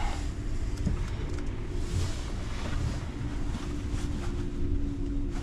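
Delivery truck driving on a snowy road: a steady engine rumble with road noise.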